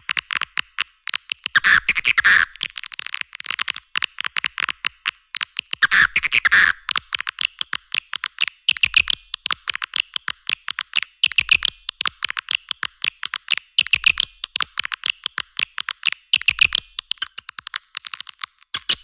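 Recorded swiftlet call, the lure track played to draw swiftlets into a nesting house: a dense, rapid stream of high-pitched chirps and clicks, with louder twittering bursts every two to three seconds.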